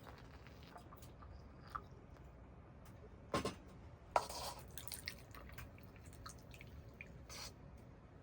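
Scattered small clicks and taps, with two louder short knocks about three and four seconds in.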